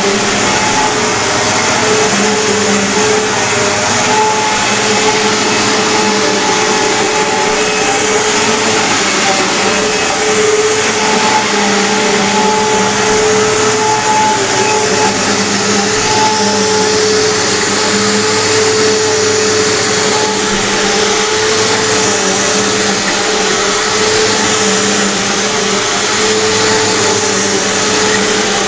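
2001 Eureka The Boss Victory 4334 upright vacuum cleaner running steadily, its motor giving a loud, even whine over a hiss of rushing air.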